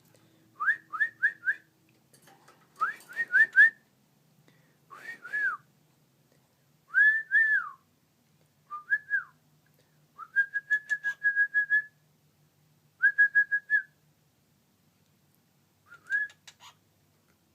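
Pet cockatiels whistling in short phrases every second or two: quick runs of three or four rising notes, arched slurred whistles that rise and fall, and a warbled held note about halfway through.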